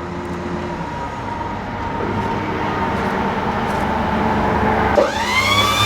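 Diesel truck engine running steadily at idle. About five seconds in, the boom's DC backup hydraulic pump motor kicks on with a whine that climbs in pitch as it spins up.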